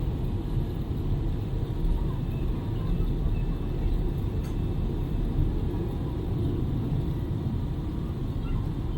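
Steady low rumble inside an Airbus A380 passenger cabin: engine and airflow noise, even and unchanging.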